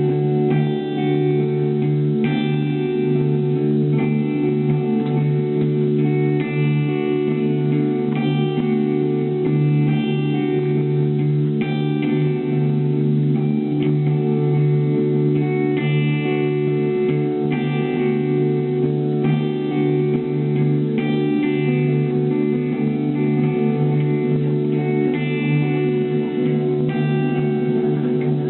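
Ambient guitar music: recurring plucked electric guitar notes over a steady low drone.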